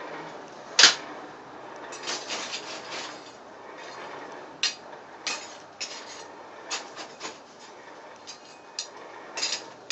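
Hammer blows and metal clanks at the anvil while forging a steel drive hook: sharp irregular strikes, the loudest about a second in, a quick run of lighter taps a couple of seconds in, then single knocks spaced through the rest.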